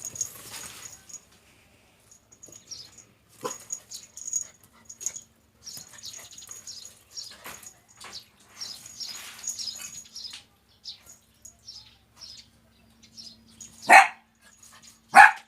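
A dog barks twice near the end, two loud sharp barks about a second apart, after several seconds of faint scattered small sounds.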